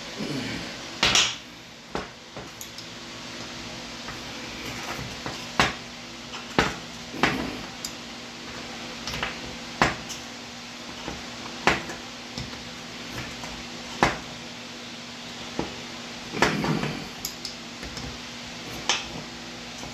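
Wrench and metal hose fitting clinking and knocking at irregular intervals of a second or two, as the fitting's large nut is tightened onto a rubber air hose.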